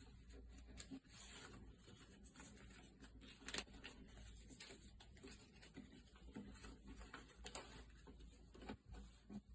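Faint rustling and crinkling of paper being handled and folded into an origami boat, with irregular small crackles and one sharper crackle about three and a half seconds in.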